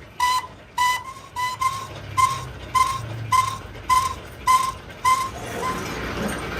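Repeated metal-on-metal strikes, about two a second, each a sharp tap that rings at one clear pitch, dying away about five seconds in.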